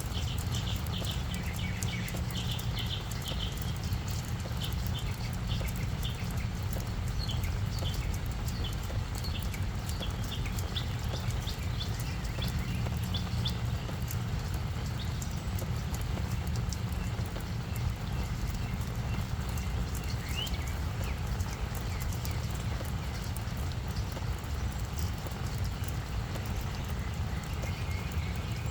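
Rain falling on a flower bed, with many small drop ticks over a steady low rumble. Short high chirps come and go through the first half.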